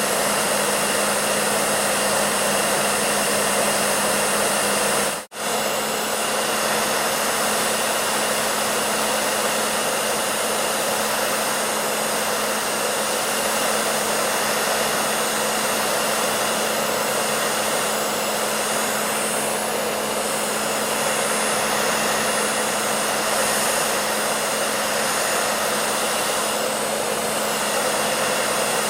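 Electric hair dryer running continuously: an even rushing of air with a steady low motor hum, cutting out for a split second about five seconds in.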